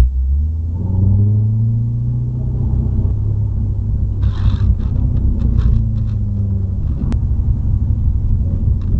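Car engine rumbling deeply, its pitch climbing and falling twice as it is revved. A short burst of noise comes a little over four seconds in, and a sharp click about seven seconds in.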